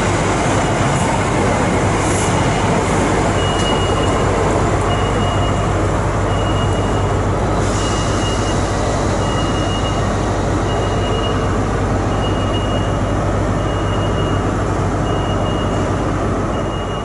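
A train running at a station platform, a loud steady noise with a low hum. From about three seconds in, a high beep repeats roughly every second and a half.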